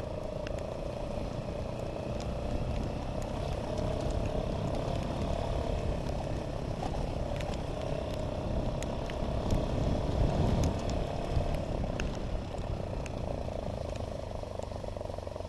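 Motocross bike engine running under way, its steady drone swelling about two-thirds of the way through, over low rumble, with scattered small ticks.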